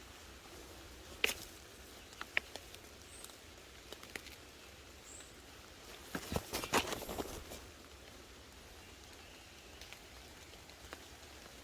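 Footsteps through forest undergrowth: a couple of sharp twig snaps a second or two in, then a short burst of leaves and brush rustling about six seconds in.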